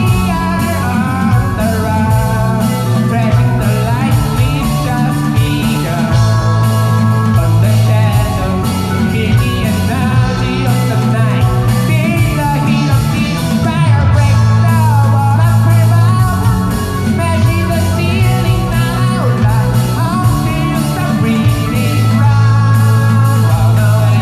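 A rock band playing live, with guitar over a steady bass line and drums.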